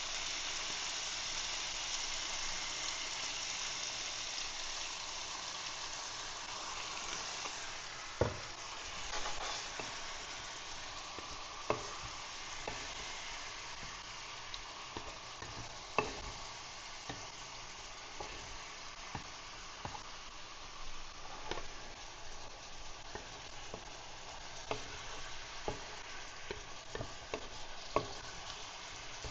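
Chicken cubes sizzling in hot oil in a pan, a steady frying hiss that eases a little after the first several seconds, with occasional sharp clicks and knocks of a utensil stirring against the pan.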